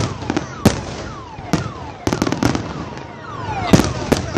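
Aerial fireworks going off in a display: a run of loud, sharp bangs every half second to a second, with falling whistles between some of them.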